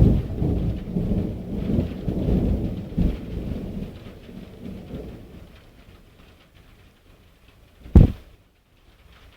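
Thunder cracks at the very start and rolls on as a deep rumble with several swells, fading away over about five seconds, with rain hissing faintly underneath. About eight seconds in there is a single sharp, short thump.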